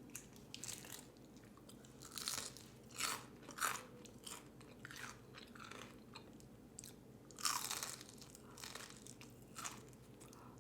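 A person chewing and biting into food close to the microphone, with irregular crunches; the loudest comes about seven and a half seconds in.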